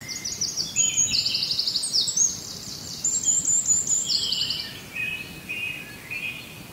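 Songbirds singing: quick trilled phrases of high repeated notes for the first four seconds or so, then lower, softer chirps, over faint outdoor background noise.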